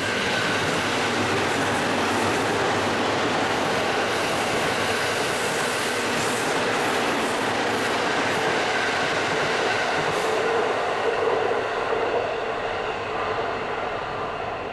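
E231-series electric commuter train running past on the tracks: a steady loud rush of wheels on rail with a thin steady ringing tone over it, easing off a little near the end.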